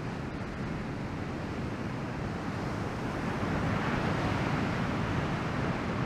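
Surf from a shoulder-to-head-high typhoon swell breaking on the shore, under a steady rush of wind on the microphone; the wash swells louder about three to four seconds in.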